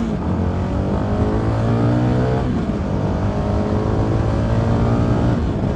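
CFMoto 300NK motorcycle's single-cylinder engine accelerating through the gears: its pitch climbs steadily, then drops at an upshift about two and a half seconds in and again near the end.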